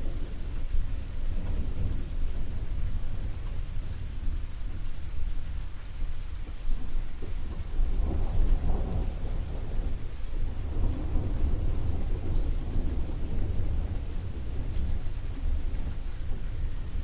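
Steady rain with a low, continuous rumble of thunder. The thunder swells about eight seconds in and again about eleven seconds in.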